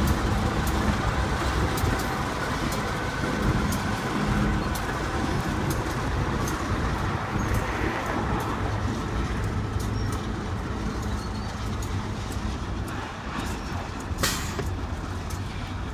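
Union Pacific diesel locomotive hauling a freight train away, its engine rumbling with wheels clicking on the rails, gradually fading as it recedes. A short hiss about two seconds before the end.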